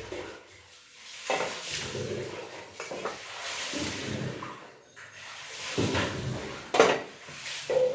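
A cooking utensil scraping and knocking against a pan of frying pitha, with sizzling underneath. There is a sharp knock about seven seconds in.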